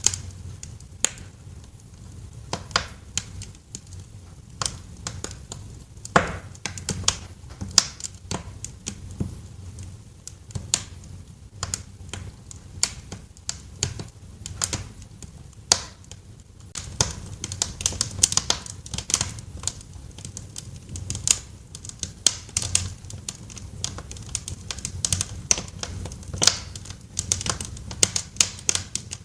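Wood fire crackling in a fireplace: irregular sharp pops and snaps, several a second and busier in the second half, over a steady low rumble.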